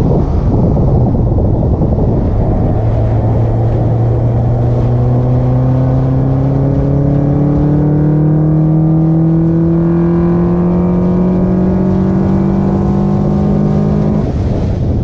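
Car engine breathing through an Acuity cold air intake under a long, steady pull, its tone climbing slowly in pitch, with heavy wind and road rush. The engine note drops away abruptly near the end.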